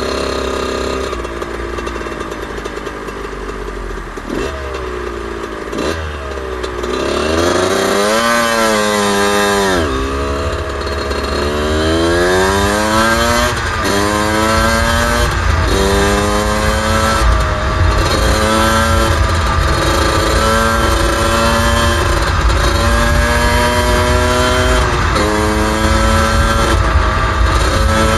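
Suzuki RM125's 125 cc two-stroke single-cylinder engine, held at low revs with a couple of quick throttle blips, then pulling away about eight seconds in. From there the pitch climbs and falls again and again as the bike runs up through the gears and rides on. Wind rumble on the microphone builds from about ten seconds in.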